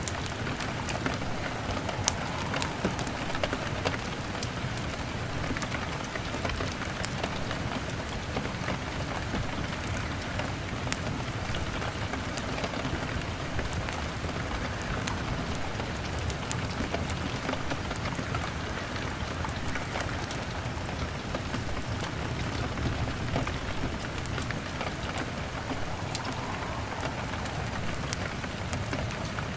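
Steady rain on a window pane, an even hiss scattered with many small sharp ticks, with a wood fire crackling.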